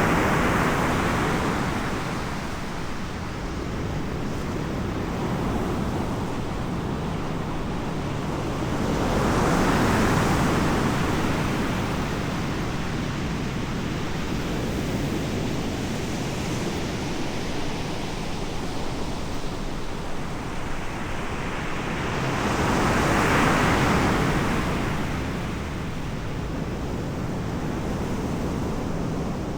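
Ocean surf: waves breaking and washing ashore, with a steady rush that swells three times, about ten and thirteen seconds apart.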